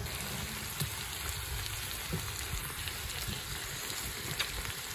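Pork belly sizzling on an iron griddle over a wood fire: a steady hiss with a few faint pops.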